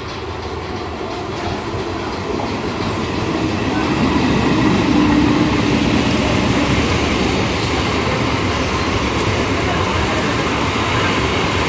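Electric multiple unit (EMU) suburban train approaching and running past close by along a station platform. It grows louder over the first four seconds, then holds as a steady rumble of wheels on the rails, with a faint clickety-clack.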